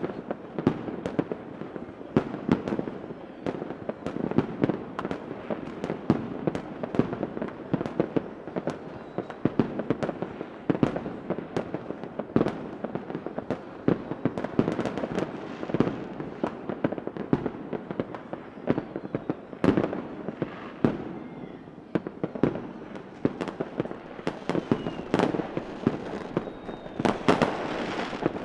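Fireworks going off in a dense, continuous barrage: many overlapping bangs, several a second, with crackling between them.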